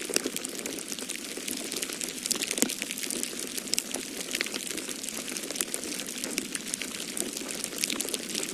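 Wood fire crackling in a fireplace, a dense run of small sharp pops and snaps, over a steady low rush of storm wind.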